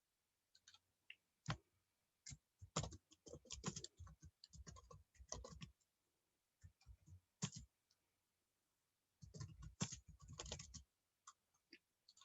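Computer keyboard typing and clicking in a few short bursts, with quiet gaps between.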